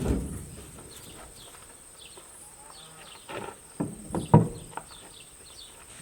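Birds chirping: a string of short, high, falling chirps, with a few louder, lower short calls a little past the middle.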